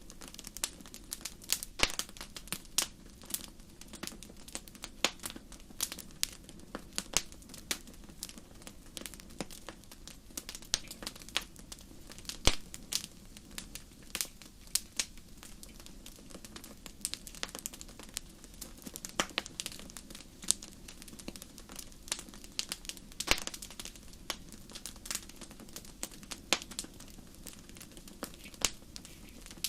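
Wood fire crackling in a fireplace: irregular sharp pops and snaps over a soft steady hiss of the flames, with a louder pop about twelve seconds in and another near twenty-three seconds.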